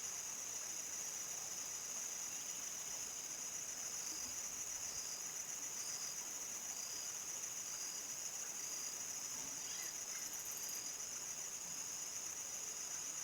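A chorus of crickets making a steady, high-pitched trill, with fainter repeating chirps beneath it and a brief faster, higher trill about ten seconds in.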